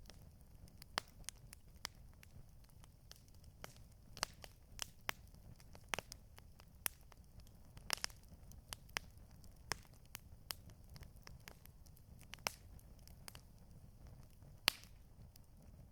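Campfire crackling: irregular sharp pops and snaps of burning wood, several a second, over a faint low rumble.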